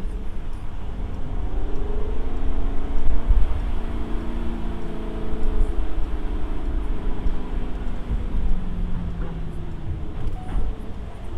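Lexus LC500's 5.0-litre V8 running, its engine note rising and falling in pitch over a steady low rumble, loudest about three seconds in.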